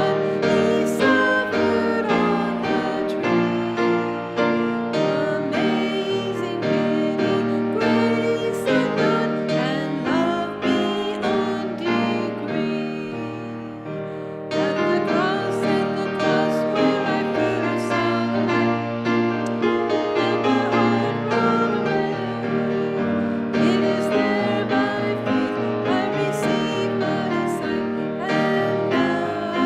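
A hymn sung with piano accompaniment, the piano chording steadily under the voices, with a brief drop in level a little before the halfway point.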